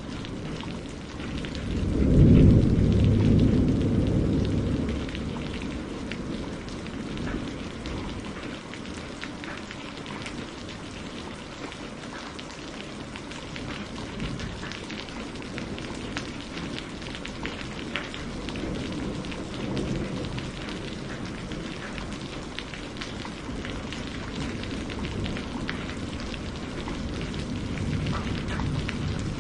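Steady rain falling, with scattered drop ticks. A loud roll of thunder comes about two seconds in and fades over the next few seconds, with fainter rumbles later.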